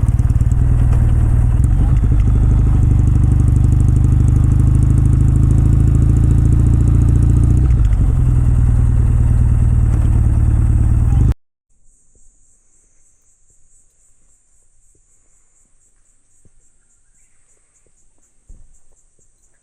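Kawasaki W650's air-cooled parallel-twin engine and exhaust running steadily under way, with a brief dip about eight seconds in. It cuts off abruptly after about eleven seconds, leaving a faint, steady, high-pitched insect drone with a few light ticks.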